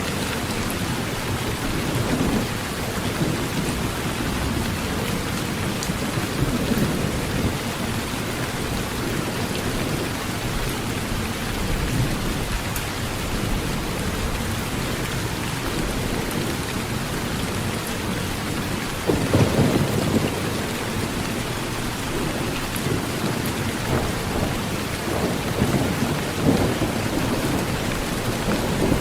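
Heavy rain drumming steadily on an old tin roof, with low thunder rumbles swelling underneath; the loudest rumble comes about two-thirds of the way through.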